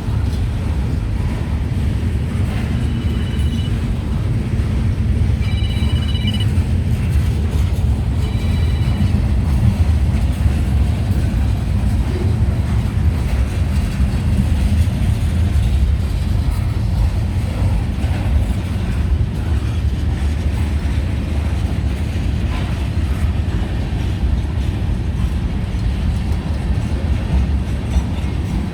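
Loaded freight train's railcars rolling past: a steady loud rumble of steel wheels on the rails, with three brief high-pitched tones in the first nine seconds or so.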